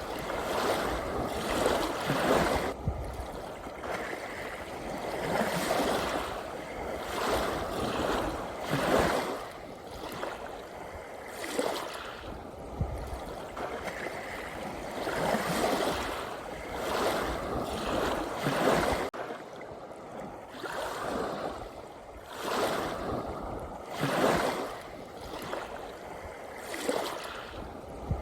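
Ocean waves washing ashore, a steady wash of surf that swells and falls back every two to three seconds.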